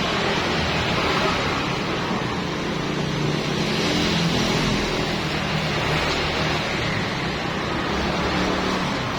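A machine running steadily with a constant hiss over a low hum.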